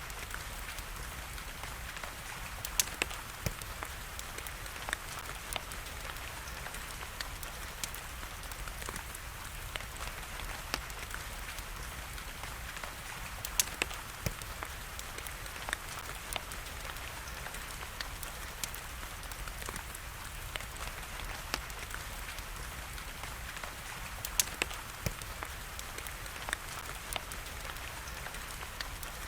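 Steady rain hiss with the small crackles of a wood fire running through it, and a few louder sharp pops that come in pairs about three, thirteen and twenty-four seconds in.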